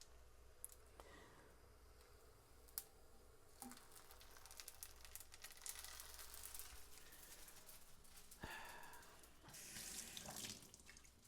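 Near silence with faint scattered clicks and soft rustling or scraping noises, the longest about eight and ten seconds in.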